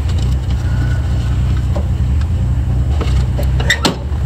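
1962 Chevy II convertible's engine running with a steady low rumble, and a few sharp metallic clicks a little before the end.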